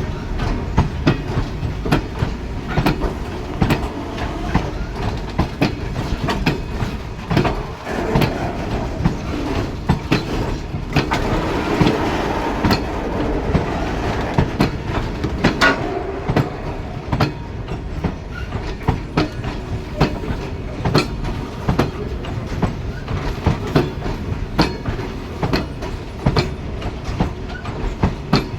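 Loaded BOXN coal wagons of an Indian Railways goods train rolling past, with a continuous low rumble and wheels clicking over the rail joints in a long irregular run of sharp clacks.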